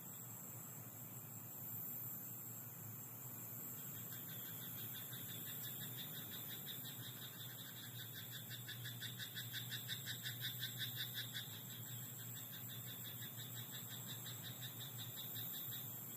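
Frogs croaking in a rapid pulsed trill of several pulses a second. It comes in a few seconds in, swells to its loudest around the middle, then carries on more softly, over a faint steady low hum.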